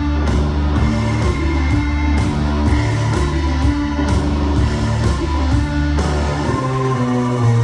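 Live psychedelic rock band playing: electric guitar over a heavy low bass line, with regular drum hits. Near the end the bass line moves up to a higher note.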